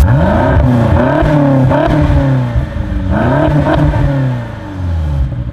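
BMW X5M's twin-turbocharged V8 free-revving while the car stands still, with a quick series of throttle blips, a second rev about three seconds in, then falling back to idle near the end.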